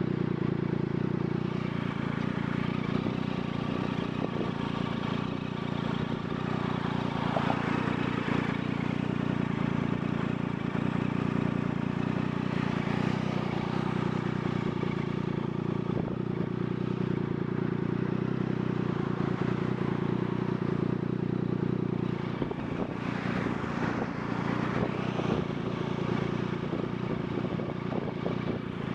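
Motorcycle engine running steadily while riding, its pitch holding nearly level with a slight dip partway through.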